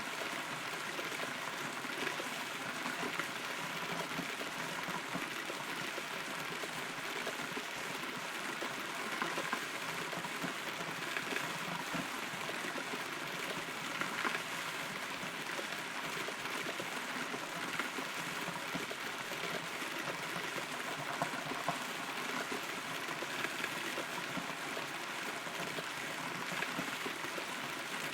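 Rain heard from inside a hollow, rotten tree: a steady hiss of rainfall with scattered louder drops landing close by.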